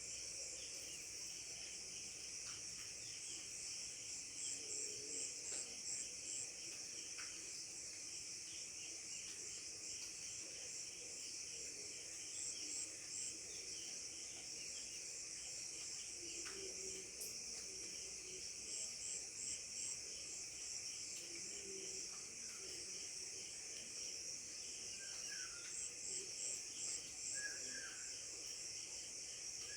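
Steady high-pitched chorus of crickets and other insects. A short run of four or five quick chirps stands out about every seven seconds, and a few faint bird chirps come near the end.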